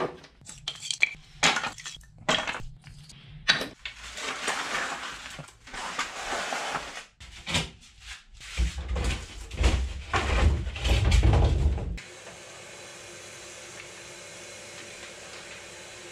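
Clattering and knocking of tools and hard objects being picked up, moved and set down while tidying a workshop, with a heavier rumbling shuffle in the last few seconds of it. It stops abruptly and gives way to faint, steady room noise.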